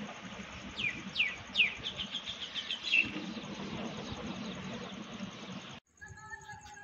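Small birds chirping over a steady outdoor background hiss. There are three quick downward-sliding calls about a second in, then a rapid run of short chirps around three seconds. Near the end the sound cuts to a quieter scene.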